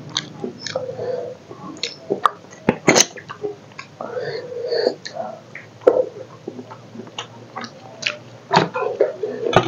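Close-up eating sounds: chewing with lip smacks and many short, scattered wet clicks as rice and chicken curry are eaten by hand.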